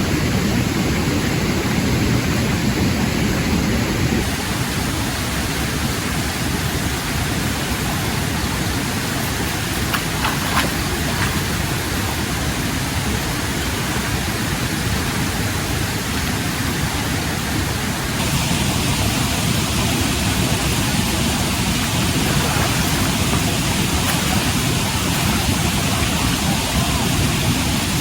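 A steady, even hiss of noise, like rain or rushing water, that grows brighter in its upper part about eighteen seconds in.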